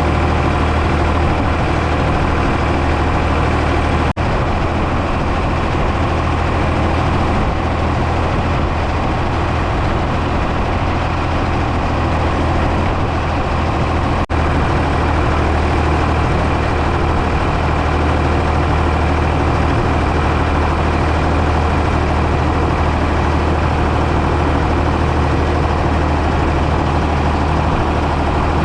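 Ford 555 backhoe loader's engine running steadily with a strong low hum, broken by two brief dips about four and fourteen seconds in.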